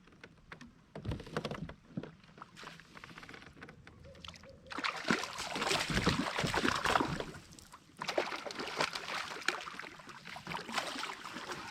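Kayak paddling: the paddle blades splash through the water in two longer spells of strokes, with small knocks and clicks against the kayak.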